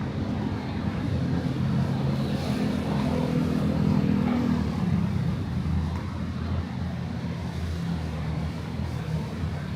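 City street traffic: vehicle engines running close by as a steady low hum, a little louder a few seconds in.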